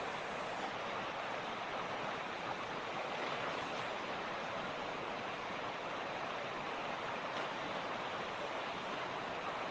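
Mountain creek (torrente) rushing steadily over rocks, an even, unbroken water noise.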